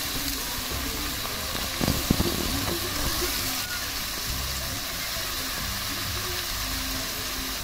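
Fish, shrimp and onions sizzling in a steel kadhai as a steel ladle stirs them, with a few knocks of the ladle against the pan about two seconds in.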